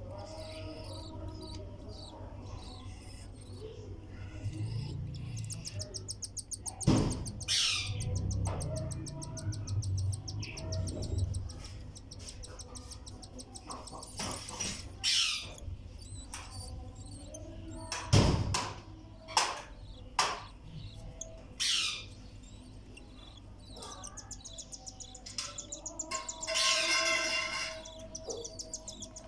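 Newly hatched cockatiel chicks giving rapid, rasping food-begging calls in bursts as they are fed, with a couple of sharp knocks.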